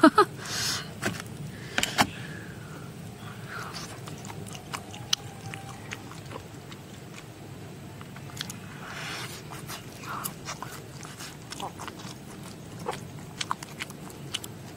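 A person biting and chewing roasted beef hoof, with many small wet clicks and smacks of gnawing and chewing.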